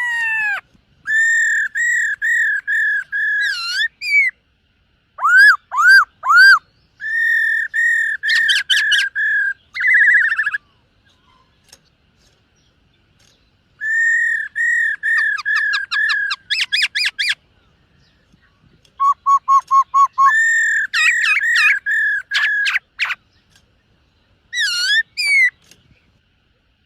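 Black-throated laughingthrush singing: loud, clear whistled phrases of repeated notes broken by quick rapid runs, with a pause of about three seconds near the middle and the song stopping a second or so before the end.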